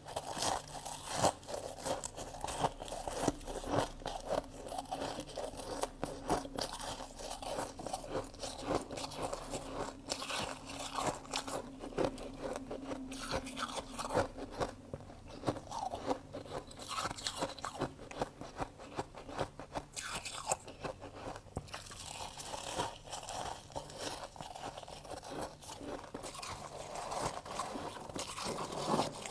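A person biting and chewing freezer frost: dense, repeated crunching, bite after bite.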